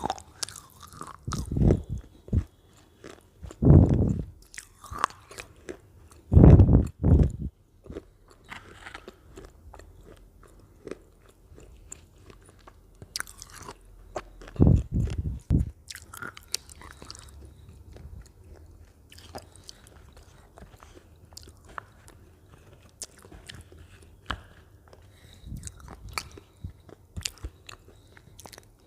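Lay's potato chips being bitten and chewed: loud crunches at about two, four and seven seconds in and again about fifteen seconds in, with quieter crackling chewing between.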